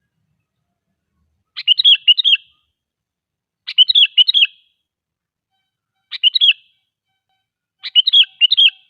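Sooty-headed bulbul (kutilang) singing: four short phrases about two seconds apart, each a quick run of several notes, with silence between them.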